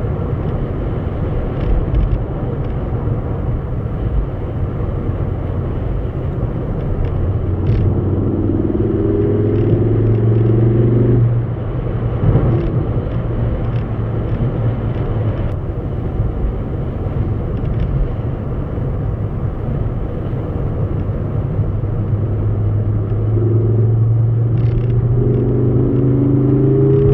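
A motor vehicle running with a steady low rumble. Its engine note rises twice: for a few seconds around a third of the way in, cutting off sharply, and again near the end.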